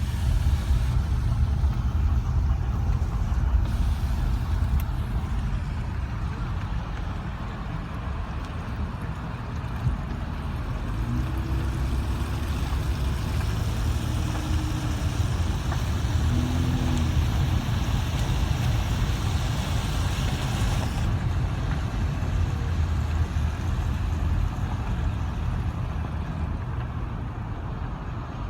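Steady rumble of highway traffic, cars and heavy trucks running past, with a couple of brief faint tones in the middle.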